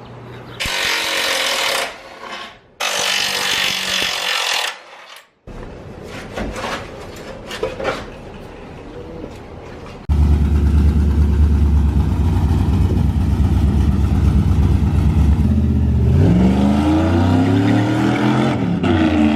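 Two long bursts of rushing noise and some scattered knocks. Then, about ten seconds in, a vehicle engine starts up loudly and runs steadily, rising in pitch near the end as it revs or pulls away.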